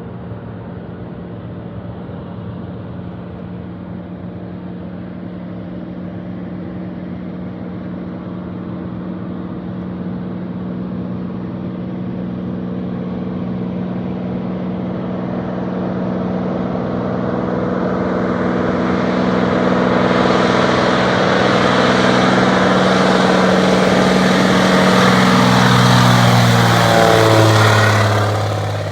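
Floatplane's piston engine and propeller at full power, growing steadily louder as the plane comes closer on its takeoff run. Near the end the pitch drops sharply and the sound fades as it passes by.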